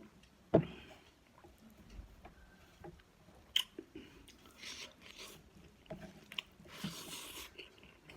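Close-up eating sounds of a person biting and chewing food, with a sharp click about half a second in, another a few seconds later, and two short crunchy stretches near the end.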